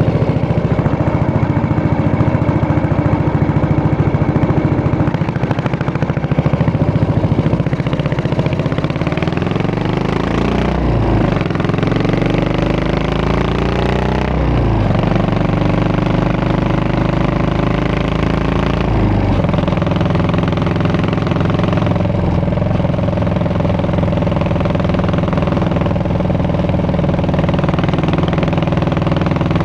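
Yamaha SR400 single-cylinder motorcycle exhaust, running steadily, then accelerating up through three gears about ten seconds in, the pitch rising and dropping at each shift, before settling back to a steady note.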